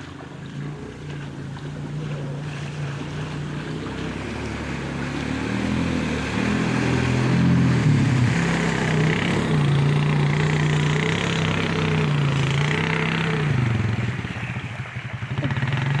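ATV engine running with its revs rising and falling as the quad rides through standing floodwater, with a hiss of water. It grows louder about six seconds in and eases off near the end.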